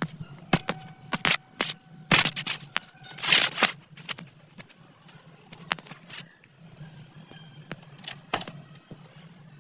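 Metal hand tools knocking and scraping on a motorcycle shock absorber under repair: a string of irregular sharp knocks, closest together and loudest in the first four seconds, with a longer scrape about three and a half seconds in.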